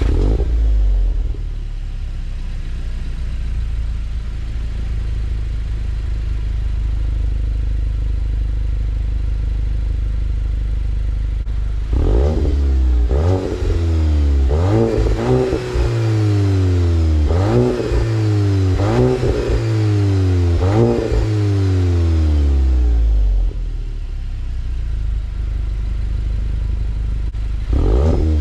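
Stock exhaust of a 2022 Volkswagen GTI (Mk8) with its 2.0-litre turbocharged four-cylinder, warm-started: the engine catches at once and settles into a steady idle. About twelve seconds in, it is revved repeatedly in Comfort mode, each rev climbing and falling back, then returns to idle before another rev starts right at the end.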